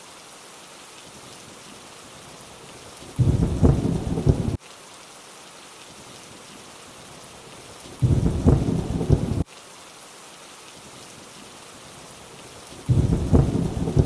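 Steady rain hiss with a low rumble of thunder three times, each about a second and a half long, coming at even intervals of about five seconds and cutting off abruptly.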